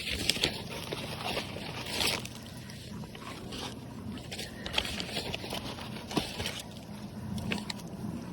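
Cows chewing hard, overbaked chocolate chip cookies: irregular crunching and wet smacking, with short cracks scattered throughout.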